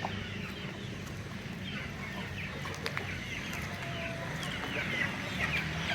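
Desi Aseel chicken chicks peeping: many short, high chirps, each falling in pitch, overlapping and growing more frequent from about two seconds in.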